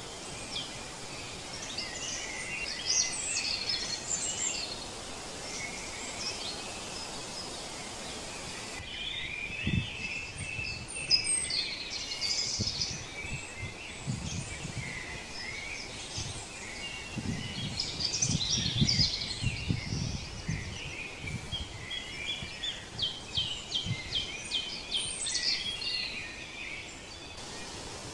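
Several birds chirping and trilling over a steady outdoor background hiss, with scattered low thumps and rumbles through the middle stretch.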